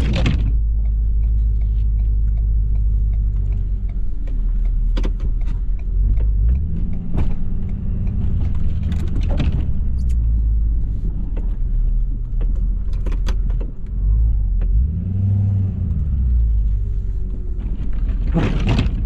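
2018 Ford F-350's 6.7 L Power Stroke V8 turbodiesel running under load, its engine note rising and falling back twice, with scattered clicks and knocks.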